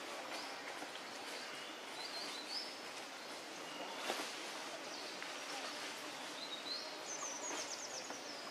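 Forest ambience: a steady background hiss with short high bird chirps about two seconds in and a quick run of high chirping notes near the end.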